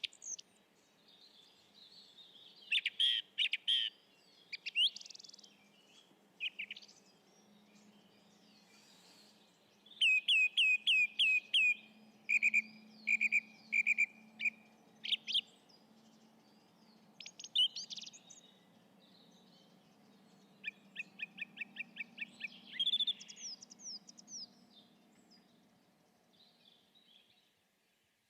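Wild birds singing and calling: many short chirps and whistles, including a quick run of evenly spaced notes about two-thirds of the way through.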